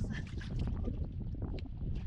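Wind rumbling on the microphone, with scattered short sharp sounds over it.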